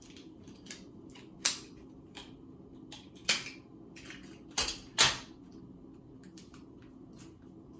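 Adhesive tape being pulled from the roll and torn off, heard as four short rips with small clicks and rustles between; the last two rips come close together.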